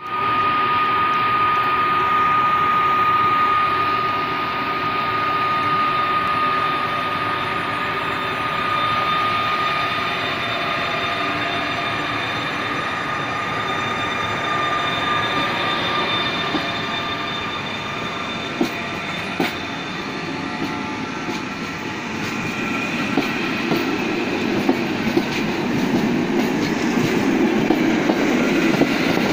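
Intercity passenger train, an electric locomotive followed by its coaches, rolling past along a station platform. A steady high whine is heard over the rumble for about the first half. Later come scattered clicks of wheels over the rail joints, and a deeper rumble builds near the end as the coaches go by.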